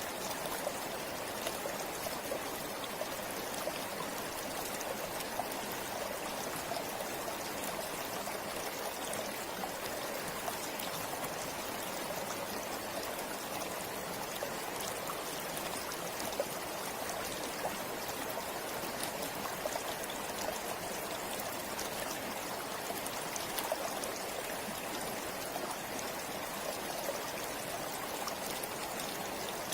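Forest river flowing steadily over rocks, a continuous rush of water with small splashes and trickles throughout.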